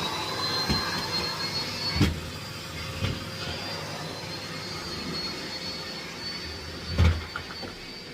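Miele Blizzard CX1 bagless cylinder vacuum cleaner running, its motor giving a steady high whine that rises slightly in the first second. A few knocks of the nozzle bumping against things, the loudest about seven seconds in.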